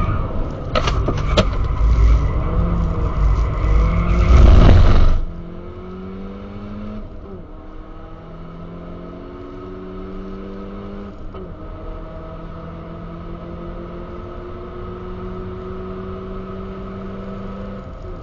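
Turbocharged Skoda Octavia engine heard from inside the cabin: a loud low rumbling noise for about the first five seconds cuts off suddenly, then the engine pulls steadily, its pitch rising slowly, with two brief breaks where it shifts up a gear.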